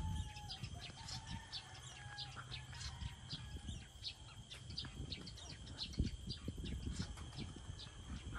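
Birds calling: many short high chirps repeating irregularly, with a faint drawn-out call in the first two seconds or so, over a steady high tone.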